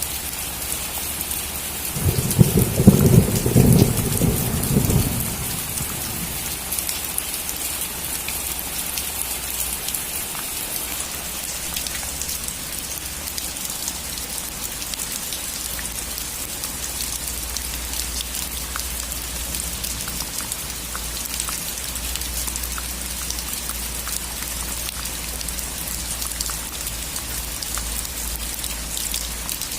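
Steady rain falling on a roof, with a clap of thunder about two seconds in that rumbles low for about three seconds before the rain carries on alone.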